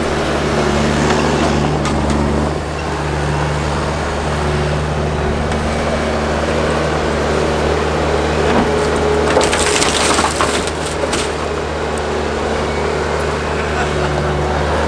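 Skid-steer loader engine running steadily while the machine crushes a junk car, with a loud crunching of the car's body about two-thirds of the way in.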